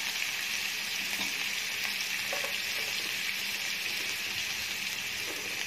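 Chicken strips, onion, carrot and freshly added sliced red capsicum sizzling steadily in hot oil in a frying pan, an even hiss.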